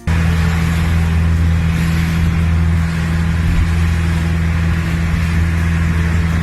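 Boat engine running steadily: an even low drone with a hiss over it.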